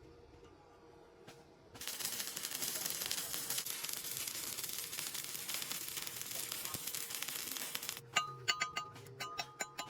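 A welding arc crackling steadily for about six seconds, starting suddenly about two seconds in. Near the end it gives way to plucked music with a clicking beat.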